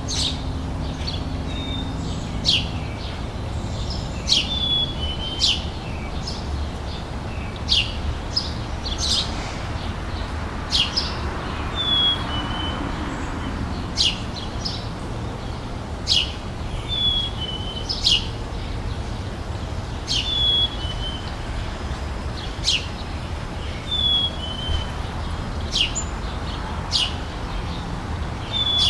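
Summer outdoor ambience of birds chirping: short high chirps every second or so, and a short repeated two-note phrase recurring every few seconds. Beneath them runs a steady low rumble.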